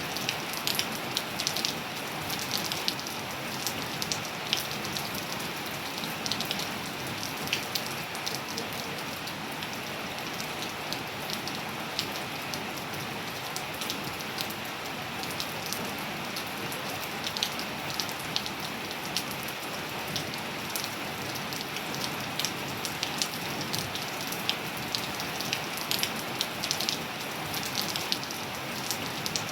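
Steady rain falling on surfaces, an even hiss with many close, distinct drop ticks and splats scattered through it.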